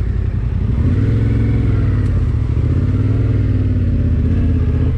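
Adventure motorcycle engine running, with the throttle opened about a second in: the pitch rises, holds, then eases back down.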